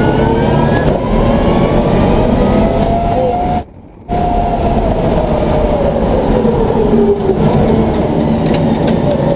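Electric race car's twin Warp 11-inch DC motors whining under acceleration, the pitch climbing steadily, over loud road and drivetrain noise. The sound cuts out briefly just before four seconds in, then the whine falls in pitch as the car eases off.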